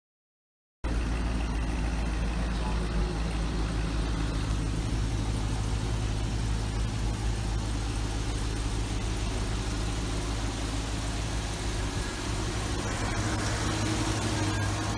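Chevrolet Tahoe's V8 engine idling steadily, starting abruptly about a second in.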